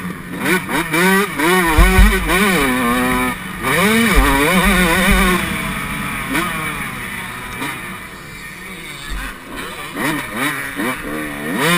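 Yamaha YZ125 two-stroke single-cylinder motocross engine racing, revving up and dropping again and again as the throttle is worked, with heavy low thumps about two seconds in and again around four to five seconds in. It runs lower and steadier through the middle before climbing again near the end.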